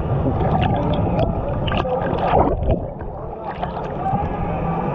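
Rapids on a water-park river ride, with water rushing and splashing close around a floating rider in many quick splashes.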